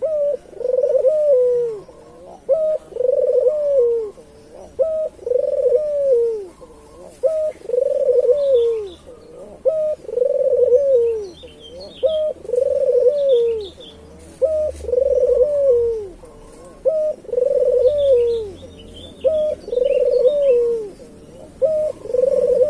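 Puter dove (collared dove) cooing over and over, about one call every two seconds: each call is a short clipped note followed by a long arched coo. Faint chirps from small birds come in now and then.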